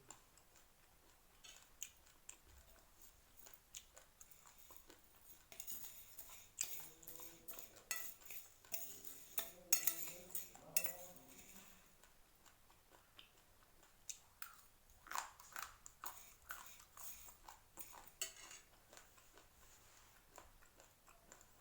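Raw rice grains being crunched and chewed, heard as irregular sharp clicks and crackles, busiest around six to eleven seconds in and again around fifteen to eighteen seconds in.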